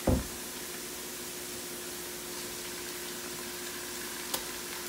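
Onions frying in hot oil in a wok, a steady sizzle with a faint steady hum underneath. A low thump comes at the very start, and a single sharp tap about four seconds in as raw chicken pieces are put into the pan.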